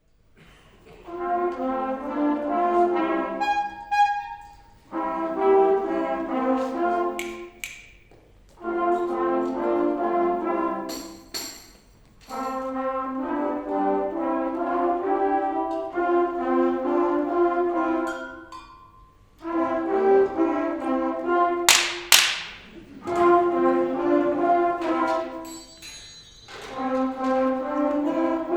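Youth fanfare band of brass instruments playing in short phrases of a few seconds each, broken by brief pauses. A few sharp noise effects cut in, the loudest about two-thirds of the way through.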